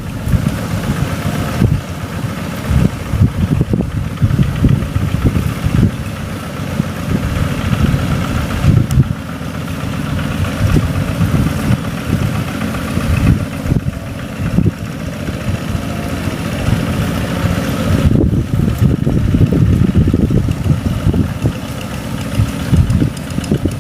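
Rice-field tractor engine running with an uneven low rumble, somewhat louder in the later seconds.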